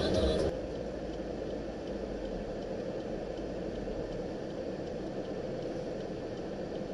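Steady engine and road noise of a car being driven, heard from inside the cabin, after music cuts off about half a second in.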